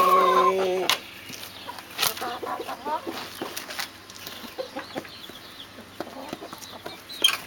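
Brahma chickens clucking and calling: a loud held call in the first second, then scattered short clucks and clicks, with a brief sharp sound near the end.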